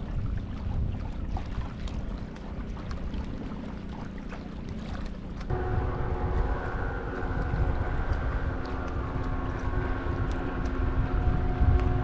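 Wind buffeting the microphone on open water, with a low rumble throughout. About halfway through, a steady motor hum with a fixed pitch switches on suddenly and holds.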